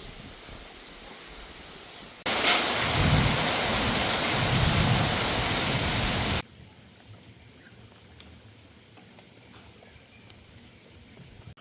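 Heavy rain pouring down as a loud, steady hiss that starts suddenly about two seconds in and cuts off abruptly about four seconds later. Fainter steady noise lies before and after it.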